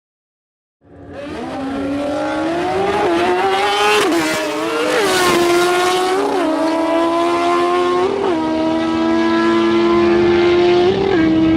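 Drag-racing motorcycle starting about a second in and accelerating hard through the gears: the engine pitch climbs, then drops sharply at each of about five upshifts. A second, lower engine tone slowly falls in pitch underneath.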